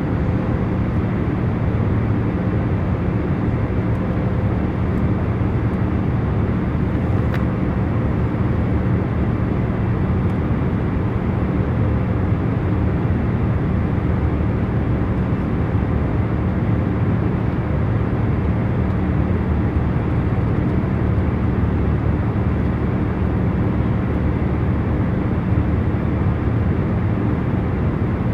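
Steady airliner cabin noise in cruise: an even rush of engine and airflow noise, mostly low in pitch, with a faint steady hum under it.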